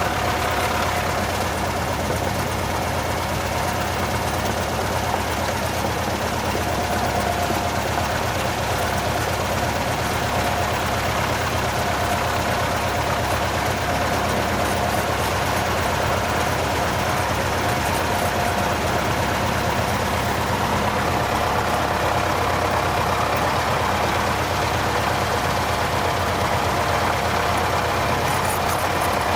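Cessna 172's piston engine running steadily at low power while taxiing after landing.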